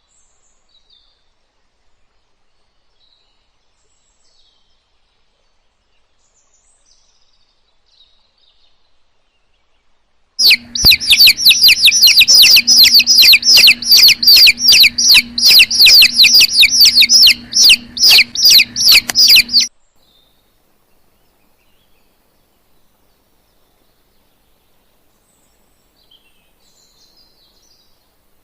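Bird chirping: faint, scattered high chirps, then a loud, fast run of high repeated chirps, several a second, over a steady low hum. The run starts abruptly about ten seconds in and cuts off about nine seconds later, after which faint chirps return.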